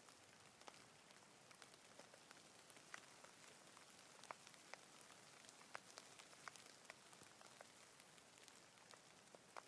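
Light rain falling: a faint, steady hiss with scattered individual drops ticking sharply and irregularly close by.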